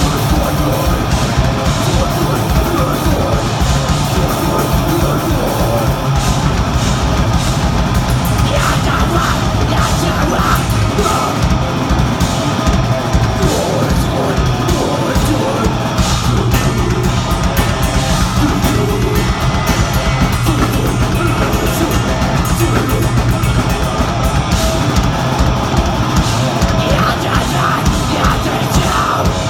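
Deathgrind band playing live at full volume: distorted guitars and fast, pounding drums, with yelled vocals over them.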